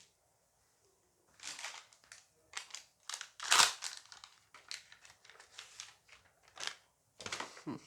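Plastic-foil booster-pack wrapper crinkling and being torn open in a string of short, crackly bursts, the loudest about three and a half seconds in.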